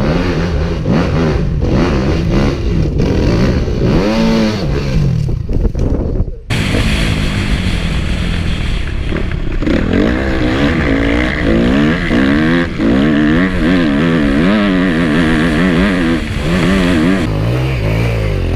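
Dirt bike engine revving hard under throttle, its pitch rising and falling again and again. A sudden cut about six and a half seconds in joins a second stretch of riding, where the revs waver up and down rapidly.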